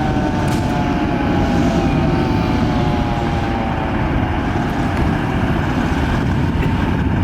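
Fire engine siren tone falling slowly in pitch and fading out over the first few seconds, over the steady loud rumble of the heavy truck's engine and road noise.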